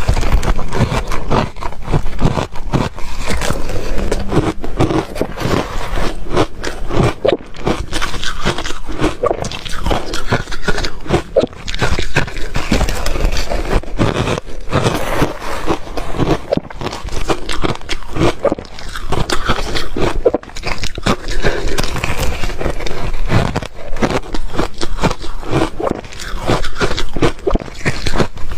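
Ice being chewed close to the microphone: continuous loud, dense crunching and crackling as the ice breaks between the teeth.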